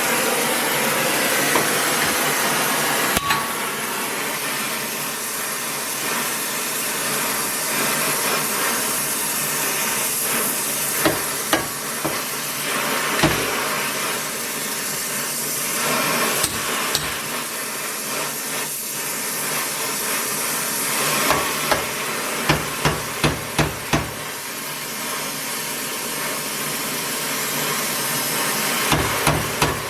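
Hammer blows: scattered single strikes, then quick runs of about two or three strikes a second, over a steady hiss-like background noise.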